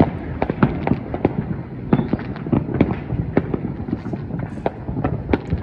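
Many fireworks and firecrackers going off at once: an unbroken, irregular string of sharp pops and bangs, several a second.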